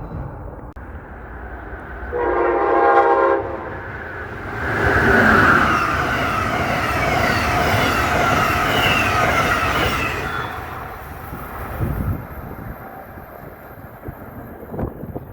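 A train horn sounds one short blast, then a train passes at speed: a loud rush lasting about six seconds that then fades away.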